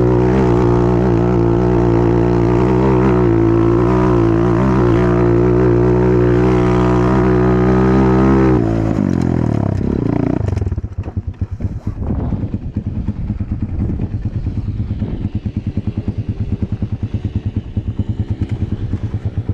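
Enduro motorcycle engine held at steady high revs, then the revs fall away about nine seconds in and it settles into a low, fast-pulsing beat at low rpm.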